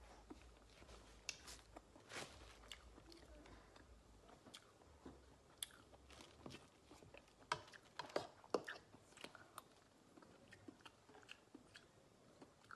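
Faint close-up eating sounds of a person chewing balut, with scattered small clicks and taps that come thickest about eight seconds in.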